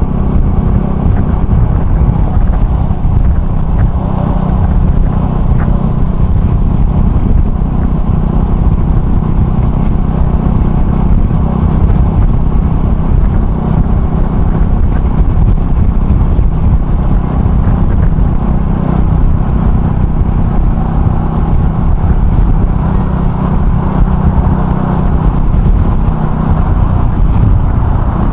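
Honda Cross Cub 110's single-cylinder engine running steadily under way, through an aftermarket RPM Raptor muffler.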